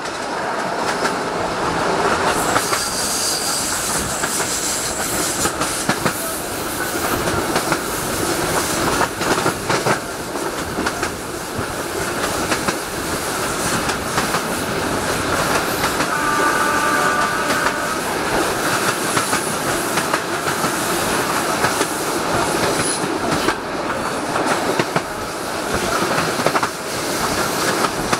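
Passenger train coaches running at speed, wheels clicking steadily over the rail joints, with rushing air noise from outside the coach. A brief wheel squeal comes about two-thirds of the way through.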